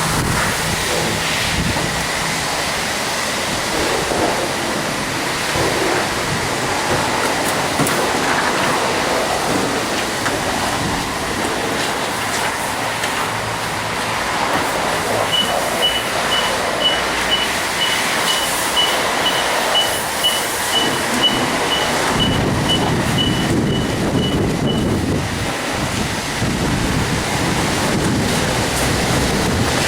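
Self-serve car wash foaming brush running, a steady rush of water and foam as the car is washed. In the middle a run of high beeps sounds, about two a second, for roughly ten seconds.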